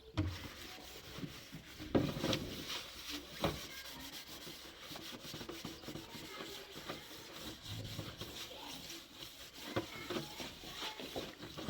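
Continuous rubbing and scraping, with a few sharp knocks along the way.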